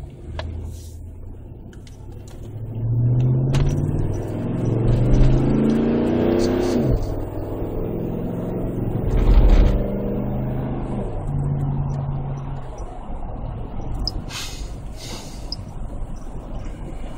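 2008 Chevy Tahoe V8 exhaust through an aftermarket Magnaflow muffler, with the stock resonator kept. The engine is revved, its pitch climbing for a few seconds before dropping back sharply. After a second low blip it settles to a steady idle.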